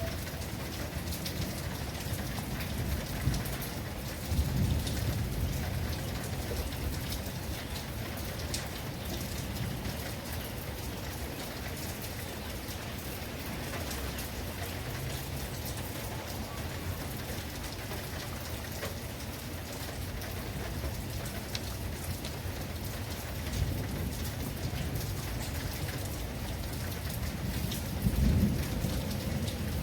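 Steady rain pouring down, with low rumbles of thunder about four seconds in and again near the end.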